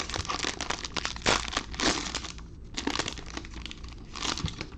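Crinkling and crackling of a trading-card pack wrapper being torn open and handled, with cards slid out. It is a run of rustling crackles, loudest about one and two seconds in.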